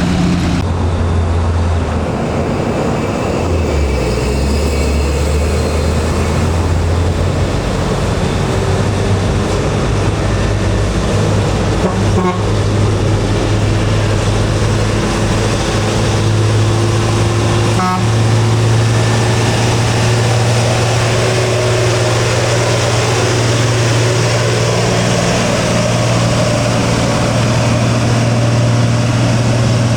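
Heavy truck's diesel engine labouring up a steep grade: a loud, low, steady drone whose pitch creeps slowly upward, with road and traffic noise around it.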